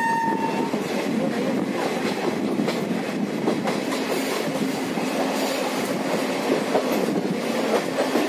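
Passenger train running at speed, its wheels rattling with a steady din and faint clicks over the rails. A steady high tone stops about half a second in.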